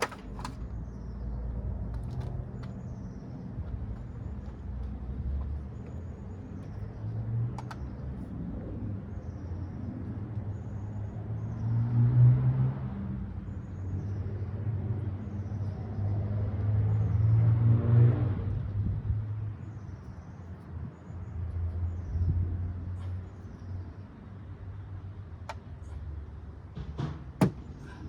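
Low rumble of road traffic, with two vehicles passing, one about twelve seconds in and a louder one about eighteen seconds in, and a few sharp plastic clicks.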